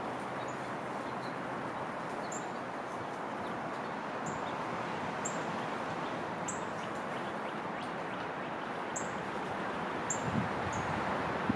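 A small songbird giving short, very high chirps at scattered intervals, about ten in all, over a steady background hiss. A few low bumps come near the end.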